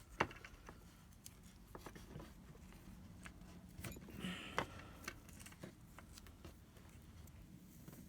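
Faint scattered clicks and a short scratchy rustle of hands handling the charger cable and the old sticky tape around its broken strain relief.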